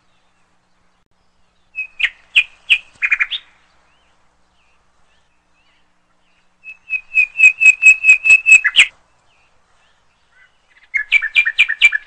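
A songbird calling in three bursts of quick repeated chirps, with silence between them; the middle burst is the longest, about two seconds.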